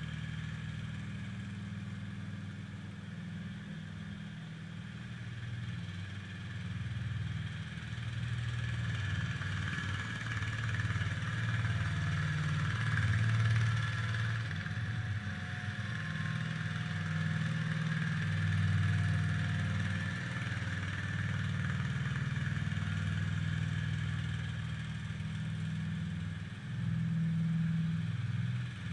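IH Cub Cadet 147 garden tractor's single-cylinder Kohler engine running steadily. The level rises and falls a little as the engine works.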